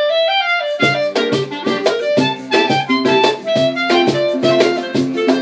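Acoustic bossa nova ensemble playing: a held melody line opens alone, and plucked guitar chords come in under it about a second in, in a syncopated rhythm.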